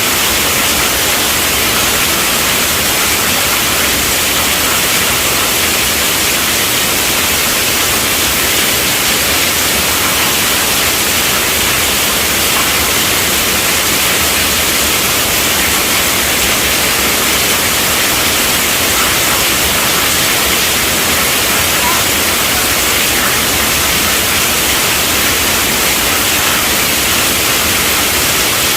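Heavy rain drumming on a tent roof: a dense, steady hiss with no thunder and no change in level.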